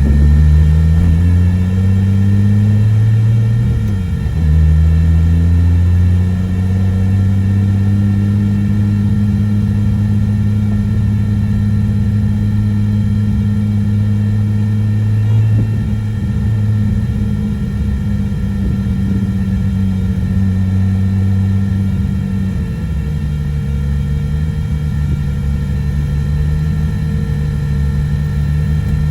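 Turbocharged Nissan RB25 NEO straight-six driving: the revs climb over the first few seconds, break for a gear change about four seconds in, then hold steady at cruise. Just over twenty seconds in, the revs drop to a lower steady pitch.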